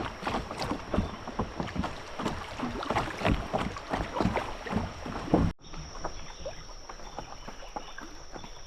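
Small paddle boat moving down a creek: water splashing and dense irregular knocks and clatter from the paddle and hull. About two-thirds of the way through it cuts off abruptly to a quieter scene with a steady high insect drone.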